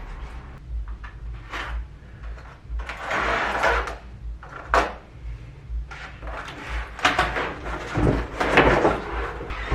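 Household handling sounds: a string of clicks and knocks with short sliding or rustling swishes, as things are moved about in a small room.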